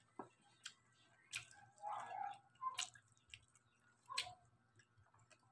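Chewing crispy deep-fried pork belly (lechon kawali), faint, with a few sharp crackles of the crunchy skin spread over several seconds.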